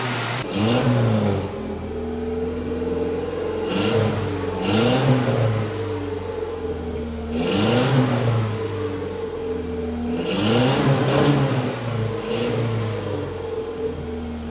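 Datsun 120Y's carburetted four-cylinder engine idling and being revved in about six short blips, each rising and falling back to idle. The engine now takes throttle because the carburettor and fuel tank have been cleaned, though the worn ignition still makes it hard to start.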